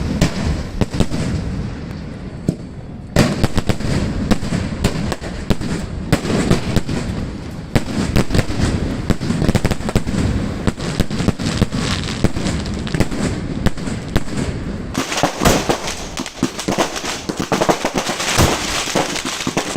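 Fireworks display: a dense, continuous barrage of bangs and crackling pops, with a short lull a couple of seconds in and a brighter, denser crackling in the last few seconds.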